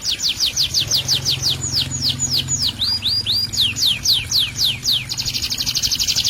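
A songbird singing a loud run of sharp, downward-sweeping notes, about six a second, that slows and varies in the middle and then breaks into a very fast trill about five seconds in.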